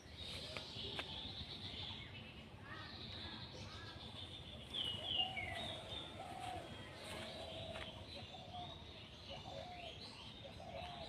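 Several birds chirping and calling, with short high chirps and lower repeated call notes scattered throughout, over faint steady background noise.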